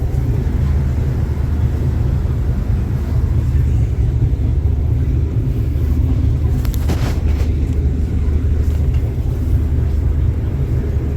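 Sleeper train running: a loud, steady low rumble inside the carriage, with a brief rattle about seven seconds in.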